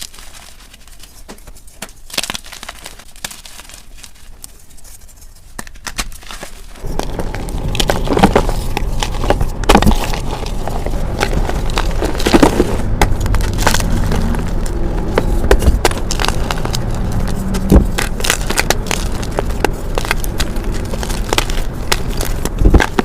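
Blocks of gym chalk being crushed and crumbled, a crackling crunch of many small sharp clicks. It starts sparse and soft, then turns much louder and denser about a third of the way in.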